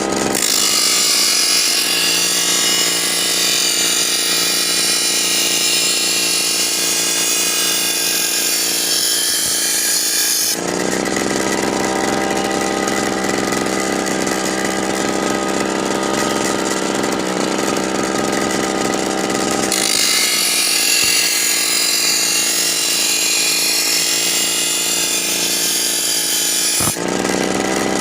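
Motor-driven power tool running steadily. Its sound shifts between harsh, hissy stretches (the first ten seconds and again from about twenty seconds in) and a fuller, lower tone in between.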